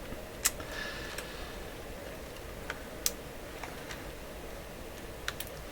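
A few scattered light clicks and taps of small push-button switches being handled and fitted into a radio's circuit board, over a steady faint hum.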